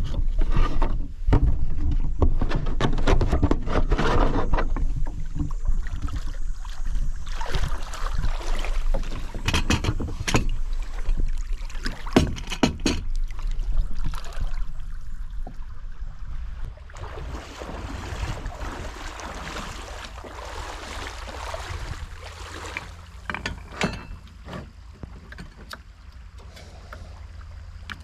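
Knocks and clatter of gear being handled on a kayak, over a steady rushing hiss, with the knocks growing fewer and the whole quieter after about 17 seconds.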